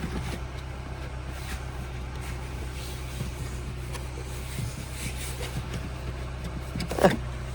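Rustling and light knocks from someone searching around a car's cabin for the bonnet release, over a steady low hum, with a sharp thump about seven seconds in.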